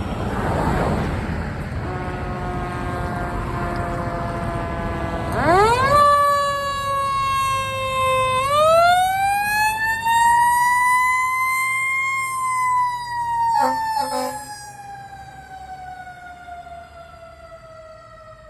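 Fire engine responding with warning devices: a steady horn tone, then a siren winding up, dipping and rising again, followed by a long, slow wind-down that fades away. Two short sharp blasts sound near the peak of the wind-down.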